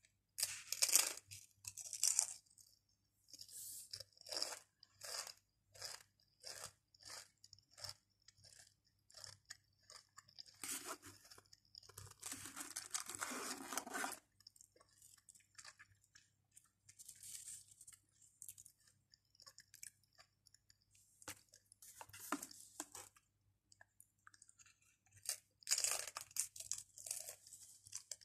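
Close-miked crunching and chewing of Pringles potato crisps: sharp crunches as a crisp is bitten, then a steady run of chewing crunches about one to two a second. There is a longer, louder stretch about halfway and loud crunching again near the end.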